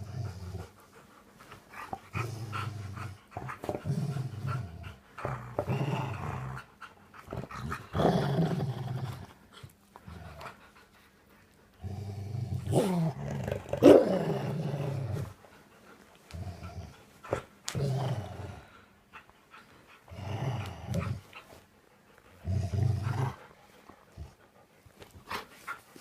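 Dog growling in play while tugging on a rope, in a string of short, low, rough growls with brief pauses between them, loudest around the middle where the pitch bends up and down.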